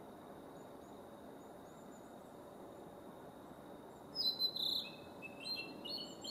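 Male blue-and-white flycatcher singing. About four seconds in, a loud phrase of clear whistled notes begins, stepping down in pitch. Before it come only faint high chirps.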